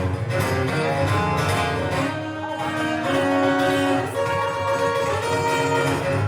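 Live music: a guitar-led instrumental passage with held notes over a steady bass line.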